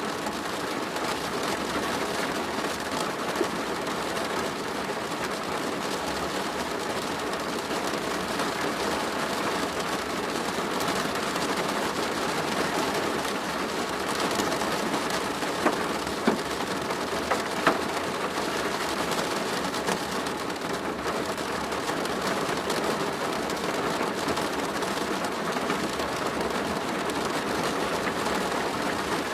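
Rain falling steadily on a plastic roof: a dense, even patter of drops, with a few louder single drop hits about halfway through.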